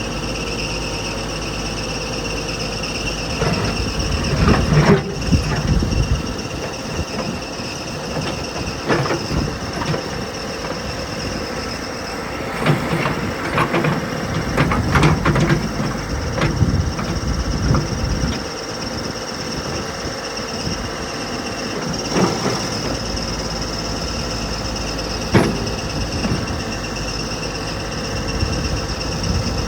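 Cat 416B loader backhoe's turbo diesel engine running under load while the loader and backhoe are worked. Hydraulics hiss and whine steadily, and the linkage and bucket knock and clank several times, most busily in the middle.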